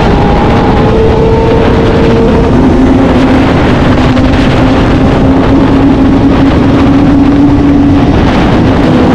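Sport motorcycle engine at high revs under heavy wind rush on the microphone. Its pitch drops once, about two and a half seconds in, then climbs slowly again.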